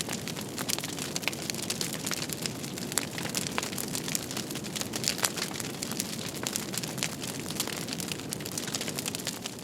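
Fireplace fire crackling: a steady hiss with many irregular sharp pops and snaps.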